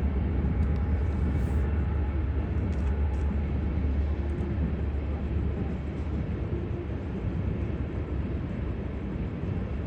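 CSX coal train rolling past, a steady low rumble.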